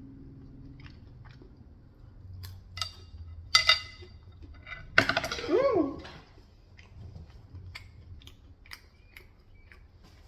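Close-miked eating: chewing, with scattered sharp clicks of chopsticks and dishes, the loudest about three and a half and five seconds in.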